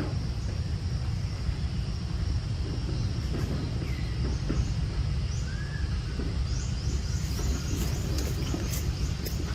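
Outdoor ambience: a steady low rumble and a steady high whine. A couple of short chirps come in the middle, and from about two thirds of the way through there is a run of quick, rising high chirps.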